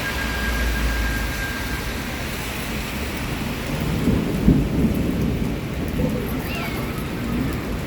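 Rain falling in a steady hiss, with a low rumble underneath that swells about four to five seconds in.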